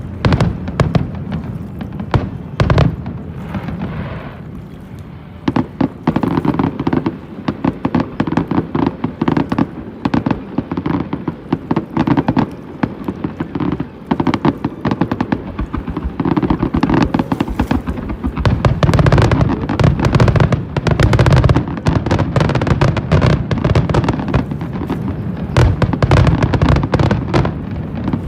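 Aerial fireworks display: a rapid, near-continuous barrage of shells bursting with bangs and crackle. It grows denser and louder about two-thirds of the way through.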